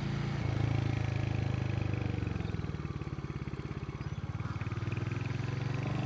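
Royal Enfield motorcycle engine running while riding, with a steady low pulsing note. It eases off in the middle, as if through a turn, then picks up again.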